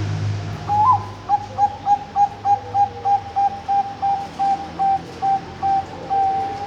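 Zebra dove (Bangkok-bred perkutut) singing: an opening note with a quick upward flick, then a rapid string of short, even coos, about three a second, ending on a longer held note.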